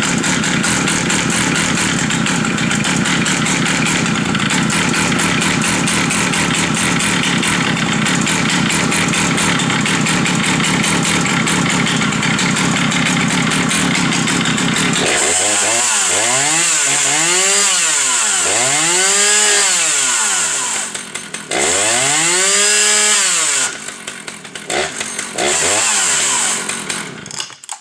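Two-stroke chainsaw engine, the 77 cc Husqvarna 480, running steadily at high speed for about fifteen seconds, then revved up and let back down about four times, each rev rising and falling in pitch. It cuts off near the end.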